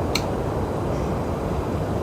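Steady low rumbling noise of wind buffeting the microphone on a high open roof deck, with one short click near the start.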